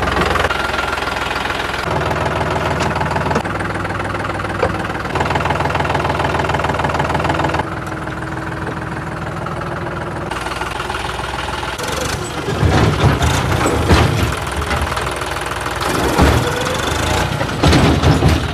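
Heavy diesel engine running, its pitch jumping between steady levels several times. From about twelve seconds in it gets louder and more uneven, with bursts of power and knocks.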